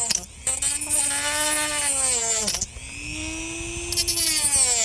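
Small handheld power tool cutting into a dried gourd shell, its motor whining in two runs of about two and a half seconds, the pitch sinking as each run winds down.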